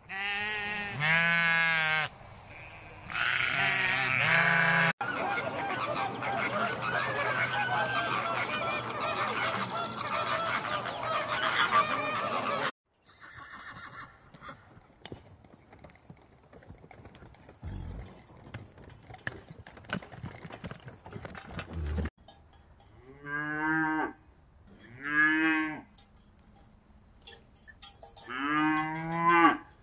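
Sheep bleating, a few wavering calls, then a long loud stretch of many overlapping animal calls. After a quieter spell with scattered soft sounds, cattle moo three times near the end.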